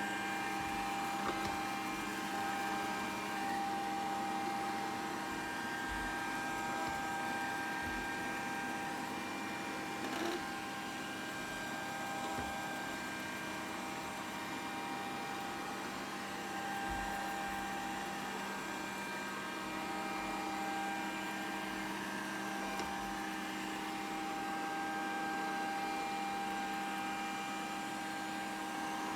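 Grundig VCR 2131 robot vacuum running steadily: a motor hum with several steady whining tones that weaken for a while and then return. There is a light knock about ten seconds in.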